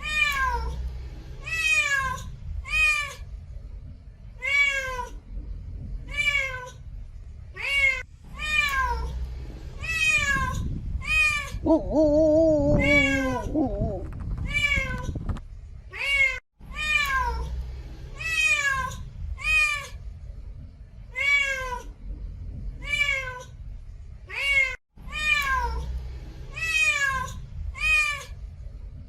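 Repeated short animal cries, each falling in pitch, about one a second, with a lower wavering call about twelve seconds in.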